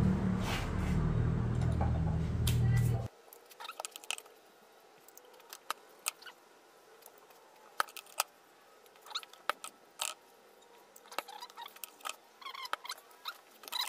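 Background music that cuts off abruptly about three seconds in, followed by scattered light clicks and taps of small metal engine parts being handled on a workbench.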